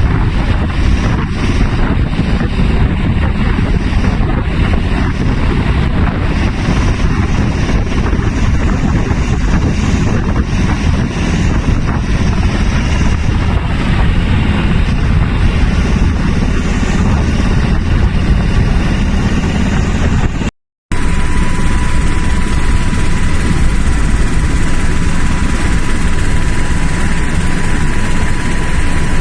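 Military helicopter running, a loud steady rotor and engine noise heaviest in the low end. After a brief cut about 21 s in it carries on with a steady high whine on top.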